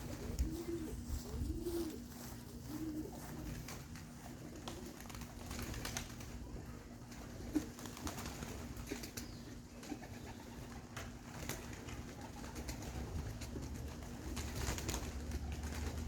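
Domestic pigeons cooing, a few short low coos in the first three seconds, with scattered light taps and rustles throughout.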